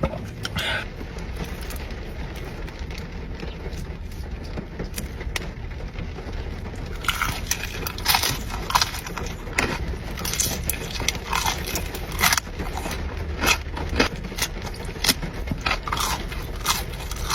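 Close-miked eating sounds from a mukbang: about seven seconds in, a run of short crunching and crackling noises from bites, chewing and food handling starts over a steady low hum.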